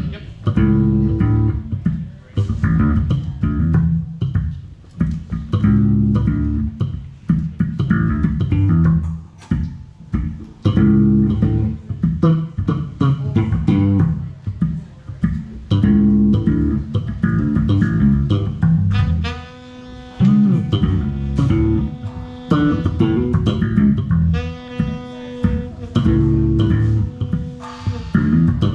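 Live band playing during a sound check: a prominent plucked bass-guitar line with guitar over it in a steady rhythmic groove. About twenty seconds in, longer held notes come in above the bass.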